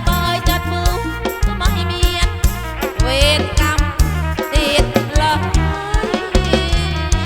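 Live kantrum folk band playing an instrumental passage: a steady drum beat and heavy bass under a wavering, ornamented lead melody.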